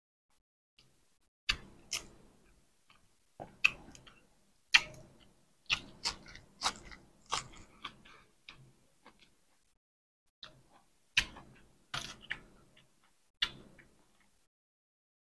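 A person chewing duck larb and raw greens close to a lapel microphone: irregular sharp crunches and wet mouth sounds, with a short quieter pause about two-thirds of the way through.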